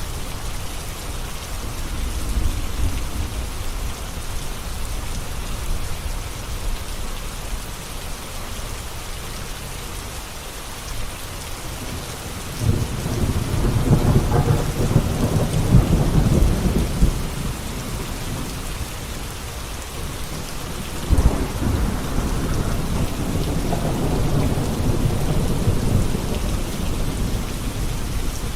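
Steady rain falling, with two long rolls of rumbling thunder, the first near the middle and the second toward the end.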